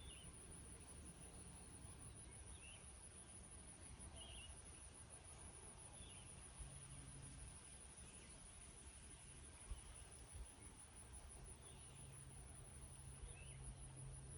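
Faint meadow ambience: a steady, high-pitched pulsing trill of insects, with short bird chirps repeating every second or so and a low rumble underneath.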